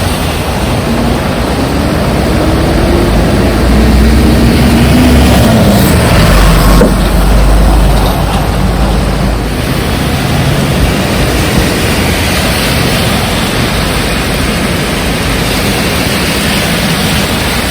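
Heavy rain and wind hissing steadily on a city street, with a motor vehicle passing close by: its engine note rises and then falls, and a low rumble is loudest about four to eight seconds in.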